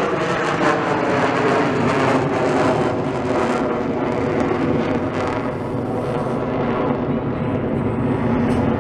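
A propeller aerobatic airplane's engine running in flight, a steady drone with a slight fall in pitch early on; the sound thins out and softens a little after about five seconds.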